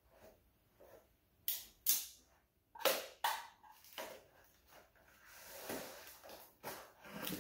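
Handling a cardboard box and its plastic-wrapped contents: a run of sharp knocks and clicks, then a stretch of rustling near the end.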